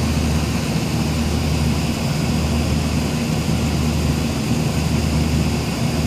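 Air-conditioning equipment running steadily: a continuous mechanical drone with a low hum underneath.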